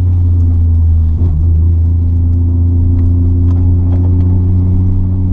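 The single-turbo RB26 straight-six of a 1993 Nissan Skyline R32 GT-R running steadily with a low, even drone, heard from inside the cabin.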